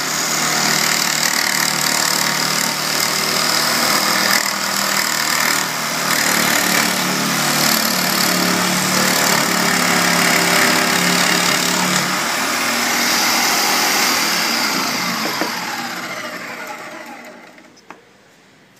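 A motor-driven machine running loudly and steadily, then spinning down to a stop near the end, its pitch falling as it slows.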